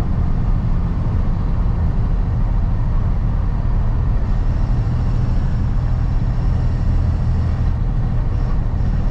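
Steady engine and road rumble heard inside the cab of a moving truck at highway speed.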